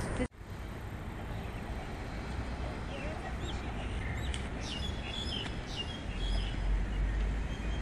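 Outdoor riverside ambience: a steady noise haze with small birds chirping several times in quick succession around the middle, and a low rumble that swells near the end.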